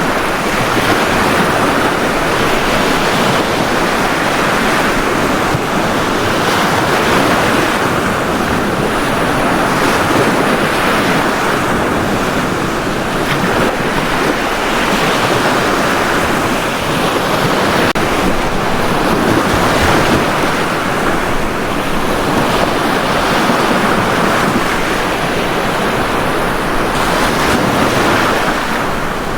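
Ocean surf breaking and washing on a beach, a continuous rush of water that swells and eases every few seconds.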